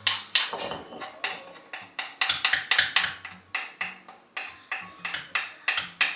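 Spice paste being pounded with a mortar and pestle: the pestle strikes the mortar in quick, steady knocks, about four a second.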